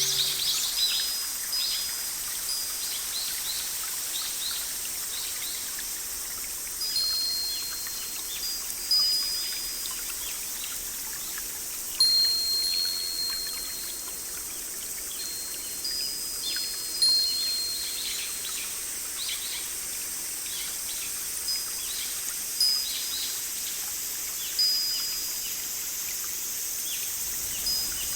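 Recorded rain with a steady high hiss and forest birds chirping and whistling high, short notes. Every few seconds a brighter note rings out sharply and fades.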